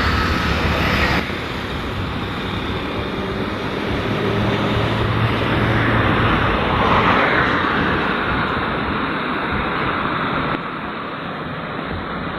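Suburban electric train running: a steady rumble and rushing noise, dropping slightly in level about a second in.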